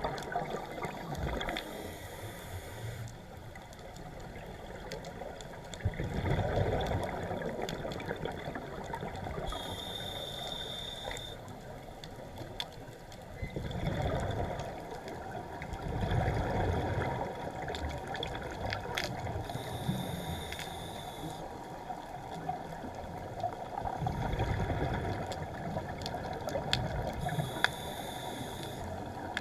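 Scuba diver breathing through a regulator underwater: a short hissing inhale alternates with a longer bubbling exhale, in slow cycles about every eight to ten seconds.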